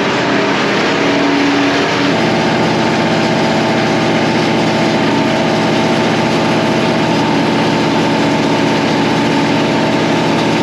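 Farm standby generator's engine running steadily at constant speed, carrying the farm's load during a power outage; its pitch shifts slightly about two seconds in.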